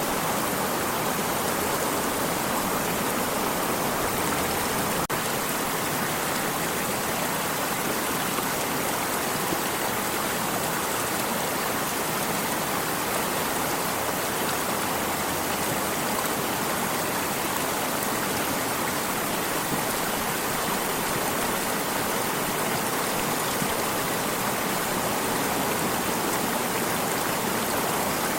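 A flowing stream rushing steadily, an even water noise that does not change, with a faint tick about five seconds in.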